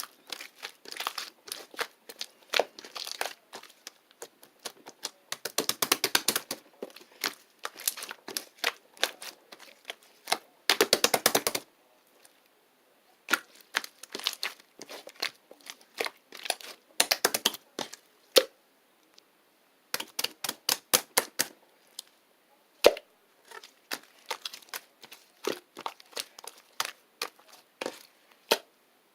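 Close-up rapid clicking, tapping and crinkling in irregular bursts, with a dense run of quick clicks about eleven seconds in and a short pause just after.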